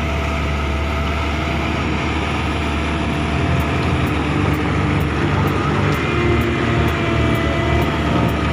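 Komatsu PC200 excavator's diesel engine running steadily, growing slightly louder about two and a half seconds in.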